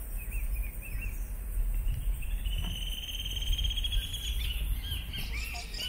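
Small birds chirping, with a fast trill lasting about two seconds in the middle, over a steady low rumble.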